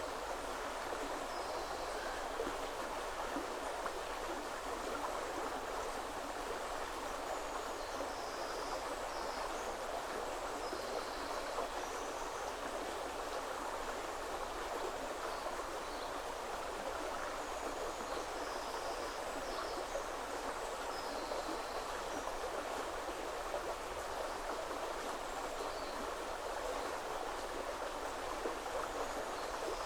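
A shallow woodland river running steadily over stones, with small birds chirping briefly and often in the background.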